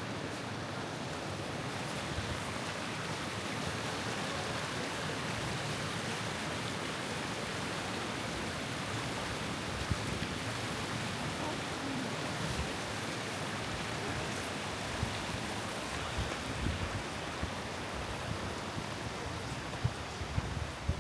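Steady rushing of the Kamieńczyk stream's water, an even, unbroken hiss, with a few dull low thumps scattered through it.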